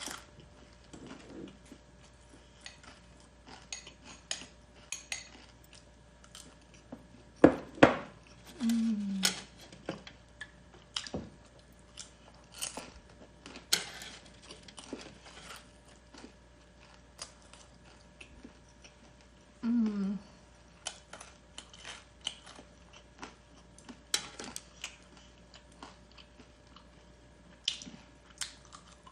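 Eating sounds: crunchy Korean spicy garlic fried chicken being chewed, with utensils clinking against a plate or bowl. Two louder knocks come about seven and a half seconds in.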